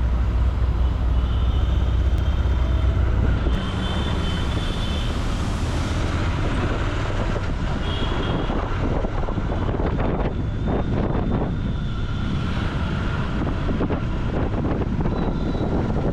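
Royal Enfield Continental GT 650's 648 cc parallel-twin engine running through its exhaust, with wind noise on the microphone. A heavy low rumble eases about three and a half seconds in.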